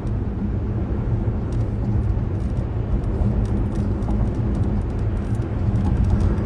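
Steady low rumble with a constant hum underneath, and faint scattered ticks.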